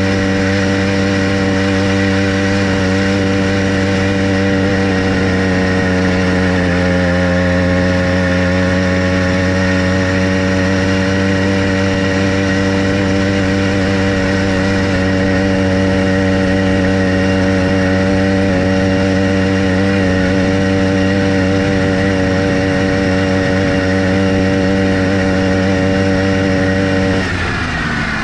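Motorized bicycle's small engine running steadily at cruising speed. Near the end its pitch and loudness drop as it is throttled back.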